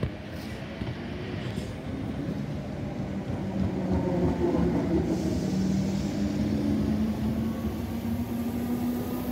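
Greater Anglia Class 321 electric multiple unit pulling into the platform and running past close by. It grows louder over the first few seconds, and a humming tone climbs slightly in pitch toward the end.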